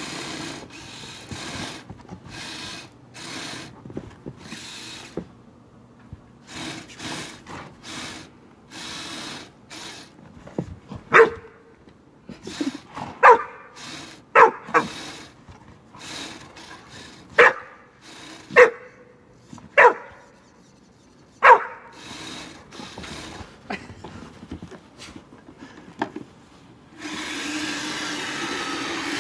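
A dog barking in single sharp barks, about seven of them spread over ten seconds in the middle. Short bursts of hissing noise come before the barks, and a steadier hiss comes near the end.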